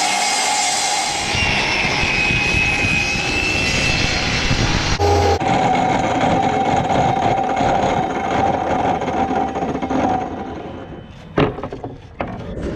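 Electric power saw running and cutting wood, a steady loud motor whine with cutting noise. It winds down about ten and a half seconds in, followed by two sharp knocks near the end.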